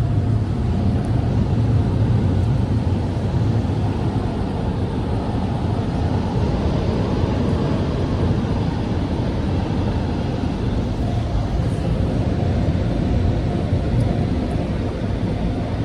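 Car wash Max Air blower dryers running: a loud, steady rush of air.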